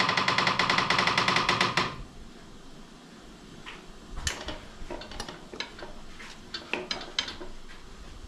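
A fast, even mechanical rattle with many strokes a second, like a pneumatic tool, cuts off about two seconds in. It is followed by scattered light metallic clinks and knocks of motorcycle wheel parts being handled.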